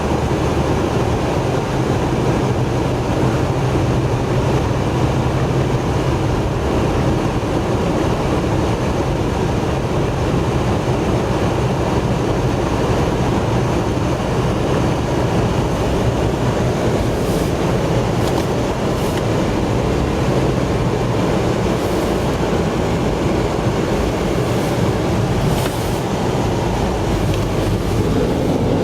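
A car driving through snow: the engine and the tyres on the snowy road make a steady, loud rumble, with a few faint ticks in the second half.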